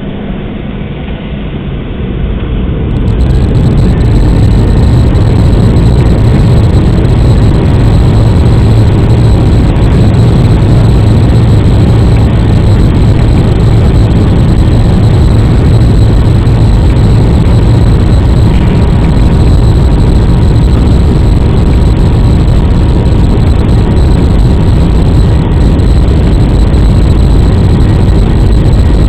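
Airliner jet engines heard from inside the cabin on takeoff: the noise swells over the first few seconds as thrust comes up, then holds as a loud, steady low roar and rumble through the takeoff run and climb.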